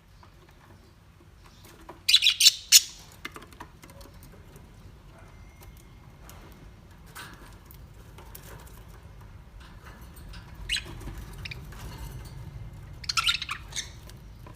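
Parrot calls: short chirps and squawks, loudest in a quick cluster about two seconds in and another near the end, with a few single calls between.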